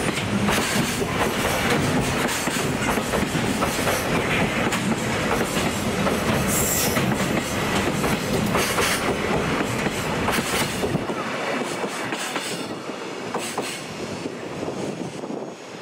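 Freight train passing close by, its wheels clattering over rail joints, with a brief high wheel squeal about six seconds in. The low rumble drops away after about eleven seconds and the sound fades as the train goes by.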